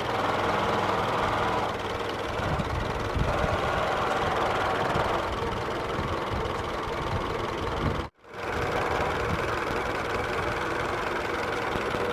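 The Ford Model T four-cylinder engine (a 1926–27 engine) of a 1923 Model TT truck idling steadily after being started. The sound drops out abruptly for a moment about eight seconds in.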